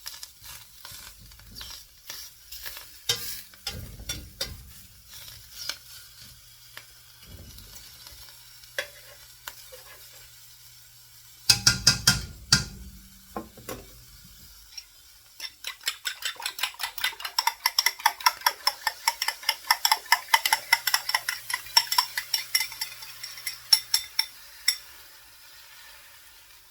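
Metal utensil stirring and clinking against a cooking vessel, with scattered knocks at first, a loud flurry about halfway, then a fast, even run of ringing strikes for about nine seconds. A faint sizzle of the potato, mushroom, onion and ham filling frying underneath.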